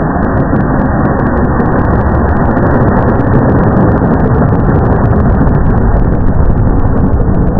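Loud, steady, muffled rumbling noise with no clear pitch, heaviest in the low end.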